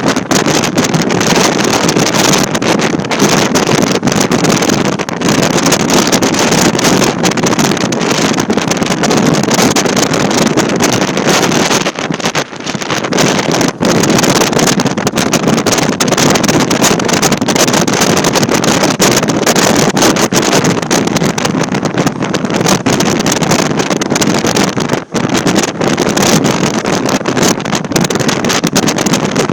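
Loud, steady rushing of wind buffeting the microphone, with a couple of brief dips.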